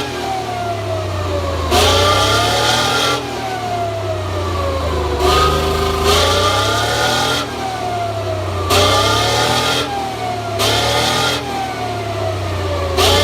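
Chieftain tank's Leyland L60 engine, a two-stroke opposed-piston multi-fuel diesel, being revved: about six sharp blips of the throttle, each followed by the pitch slowly falling as the revs drop back.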